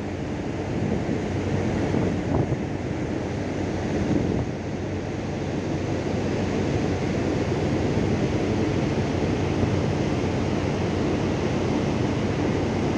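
Steady wind buffeting the microphone over the rushing noise of the open sea, a deep, even roar without distinct tones.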